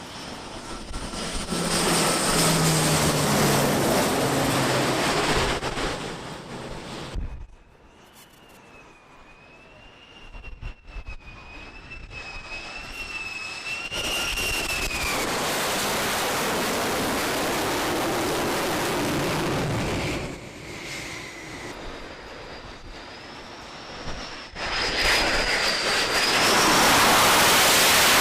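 Jet aircraft engines running in several cut-together shots, with a high turbine whine that wavers in pitch. The loudest part is a rushing jet blast near the end.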